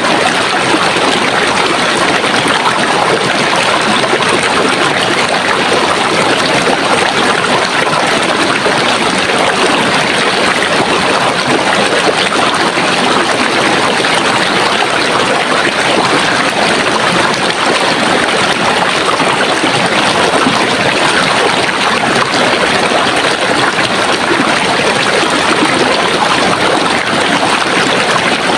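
Running water, a steady, unbroken rush of splashing flow.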